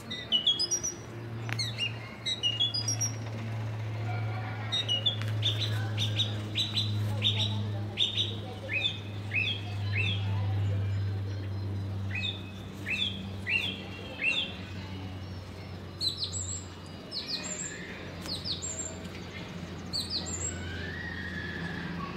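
Small birds chirping: runs of short, quick chirps that sweep downward, repeated many times, over a steady low hum.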